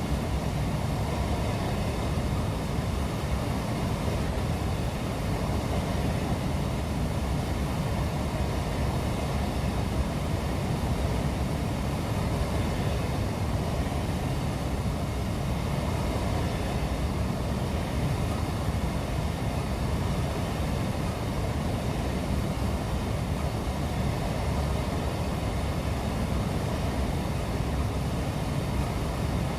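A train rolling past: a steady rumble and hiss of wheels on rail that holds at an even level throughout.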